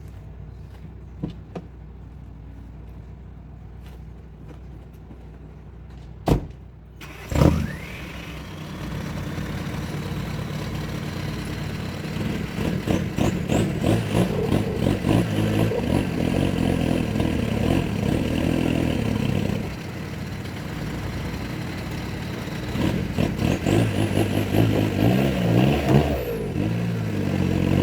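Mini truck engine starting up about seven seconds in, then revved in repeated surges, as when the truck pulls hard on the chained buckthorn.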